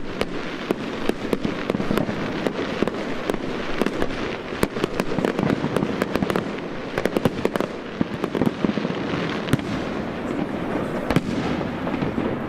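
Fireworks going off: a dense, unbroken crackle of many sharp bangs and pops.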